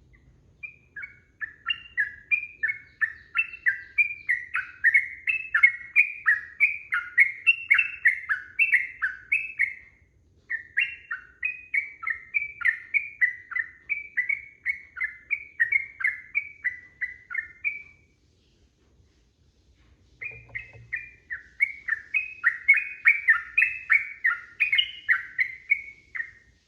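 Yellow-vented bulbul (trucukan) singing in full voice: long strings of quick whistled notes, about two or three a second, in three long bouts with short breaks between them.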